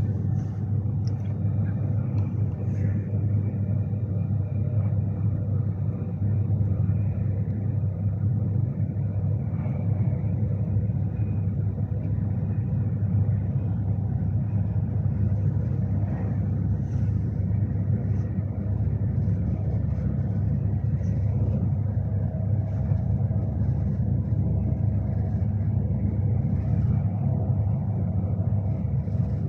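Cabin noise inside a Class 390 Pendolino electric train on the move: a steady low rumble with a faint even hum.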